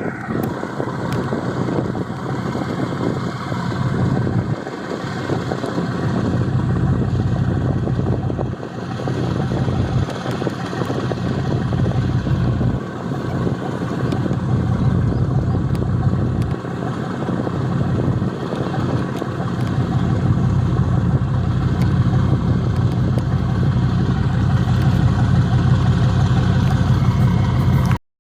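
A boat's engine running with a steady low hum, cutting off suddenly near the end.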